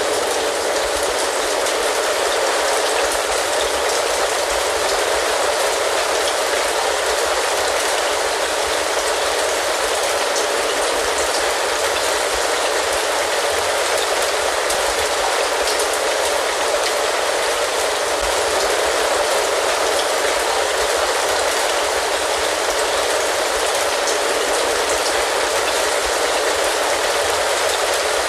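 Steady rain falling: an even hiss of rain with dense, fine drop ticks, unchanging throughout.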